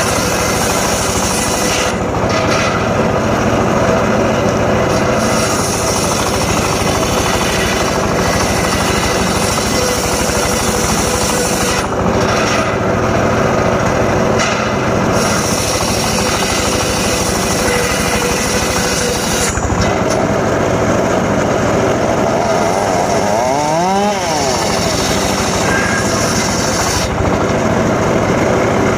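Homemade engine-driven circular saw rig running and cutting teak wood: a steady, loud mix of engine and saw-blade noise, with a brief swoop in pitch a little over three quarters of the way through.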